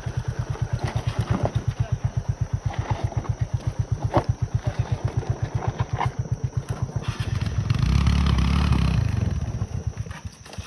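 Motorcycle engine running at low revs, its exhaust beat steady at about eight pulses a second, with a few sharp knocks from the bike on rough ground. Near the end a louder low rumble swells and fades.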